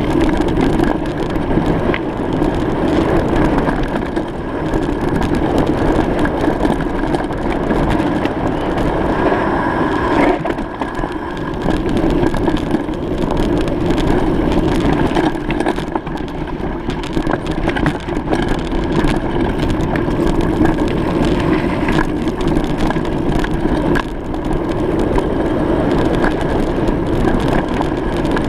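Bicycle riding over a rough surface: a steady rolling rumble from the tyres with constant crackling and rattling.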